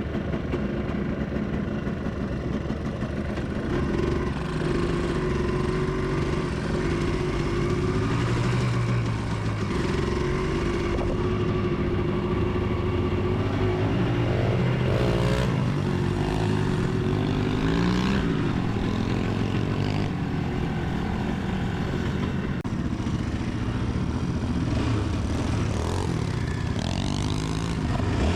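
Motorcycle engine running as the bike is ridden, its pitch rising and falling with the throttle.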